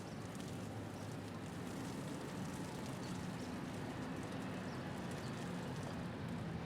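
Steady low rumble of city traffic with an engine hum, and faint scattered ticks of hail.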